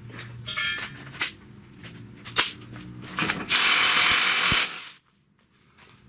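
Hand ratchet wrench clicking as it works a suspension nut, with a few sharp metal knocks. About three and a half seconds in there is a loud rushing noise lasting about a second, then it goes almost silent.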